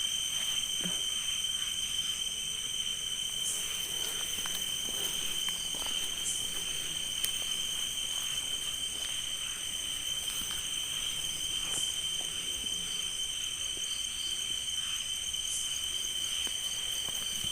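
Steady chorus of night insects singing at several high pitches at once, with a few faint soft clicks or rustles.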